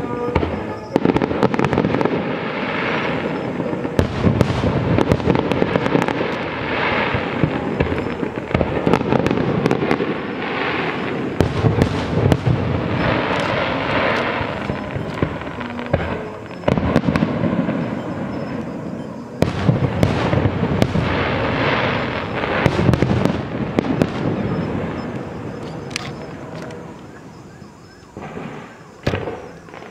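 Fireworks display: many sharp bangs and crackles over a dense, continuous booming rumble of shells bursting, thinning out over the last few seconds.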